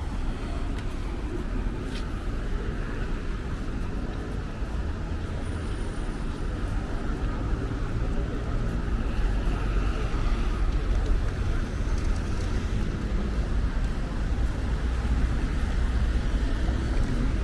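Street traffic ambience: a steady rumble of passing vehicles that grows slowly louder.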